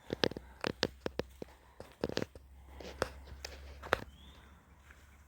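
Footsteps of a person walking across a footbridge: a run of sharp, irregular steps, a few a second. There is a brief faint high chirp about four seconds in.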